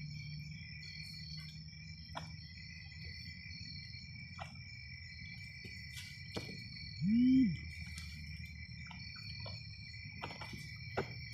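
Crickets chirring steadily, with scattered faint clicks. About seven seconds in comes one short vocal sound that rises and falls in pitch, the loudest thing heard.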